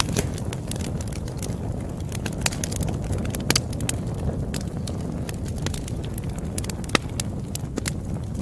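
Campfire crackling: a steady low rumble of burning wood with frequent sharp pops and snaps, the loudest about three and a half and seven seconds in.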